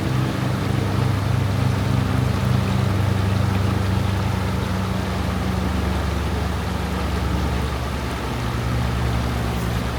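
Water of a stream flowing over stones, under a steady low droning hum that shifts in pitch about halfway through and again near the end.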